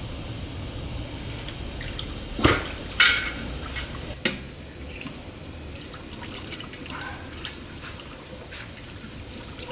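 Engine oil dripping and trickling, with two sharp knocks about two and a half and three seconds in and a few fainter clicks after.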